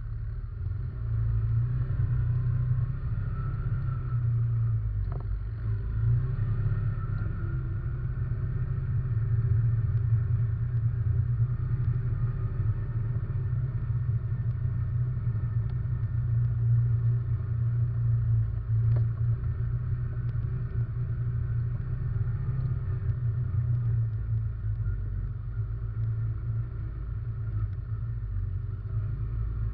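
Russian Mechanics RM 500 ATV engine running at a steady pace as the quad is ridden, heard through a camera mounted on the machine, with a low rumble; two brief knocks, about five seconds in and again near the middle.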